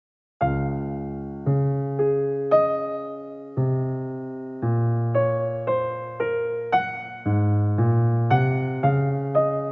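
Background music: an electric piano playing a gentle melody in chords, each note struck and fading, starting about half a second in.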